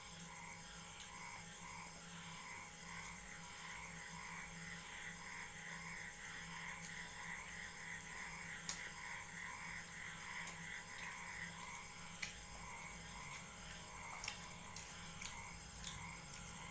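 Faint chewing of food, with a soft regular pulsing and a few sharp clicks, over a steady faint hum.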